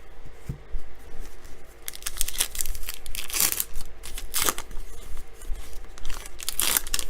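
A trading card pack wrapper being torn open and crinkled: several quick ripping, crinkling bursts starting about two seconds in.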